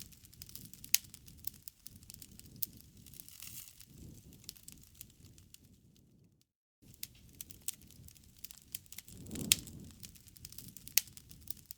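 Campfire crackling, with irregular sharp pops over a low steady rustle. The sound drops out completely for about half a second a little past halfway, then resumes.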